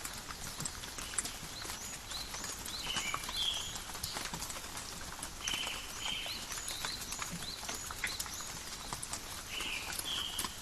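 Steady rain falling in a forest, with many separate drops ticking and pattering. A bird chirps over it in short high rising-and-falling notes, in three bursts about 3, 5.5 and 10 seconds in.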